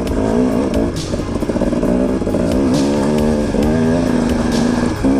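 KTM 250 XC-W two-stroke dirt bike engine running under a changing throttle, its pitch rising and falling, then holding steady for about a second near the end.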